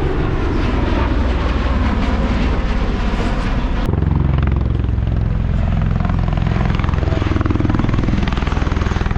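Helicopter running loud and steady, with a fast, even rotor beat. The sound changes abruptly about four seconds in, to a heavier low rumble.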